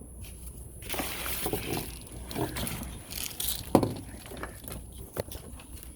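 Handling noises: rustling and scraping with several knocks, the loudest a little before four seconds in, as things are moved about by hand.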